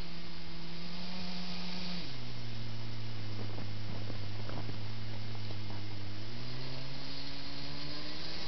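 Kyosho Blizzard RC snow groomer's electric drive motors and gearboxes humming steadily. The pitch steps down about two seconds in and climbs again near the end as the throttle changes, with a few light clicks around the middle.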